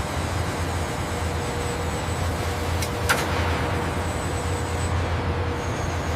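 A steady low mechanical rumble with a hiss over it. Two faint clicks come about three seconds in.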